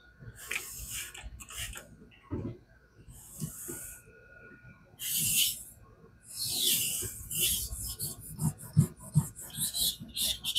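Knife blade being stroked across a King whetstone in a fixed-angle guided sharpener, giving scraping strokes with pauses between them, then a run of quick strokes in the last few seconds.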